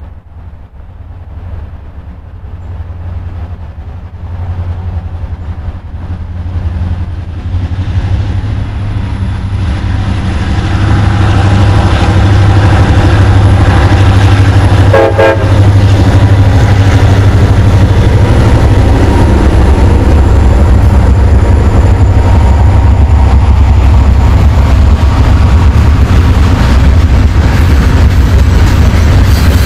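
Diesel-hauled train approaching and passing, its low rumble growing louder over the first dozen seconds and then staying loud. A brief horn toot sounds about halfway through.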